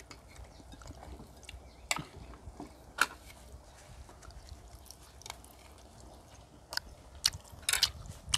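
People chewing food at a meal, with scattered sharp clicks of chopsticks and spoons against plates and bowls.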